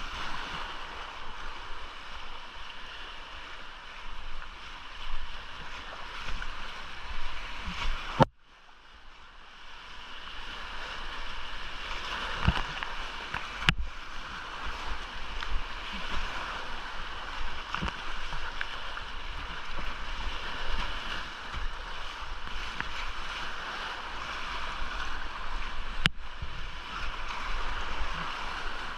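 Rushing whitewater of a small creek in spate, heard close from a kayak, with a few sharp knocks. The rush cuts out suddenly about eight seconds in, then builds back up over a few seconds.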